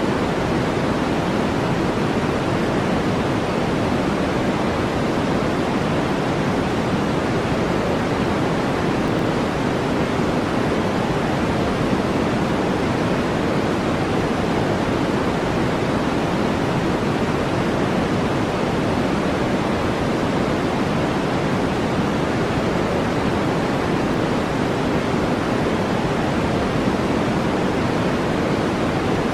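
Steady synthetic brown noise: an even, unchanging rush weighted toward the low end.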